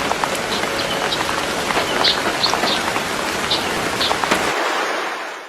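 Steady rain, a hiss of falling water with many small scattered drop ticks. It thins about four and a half seconds in and fades away near the end.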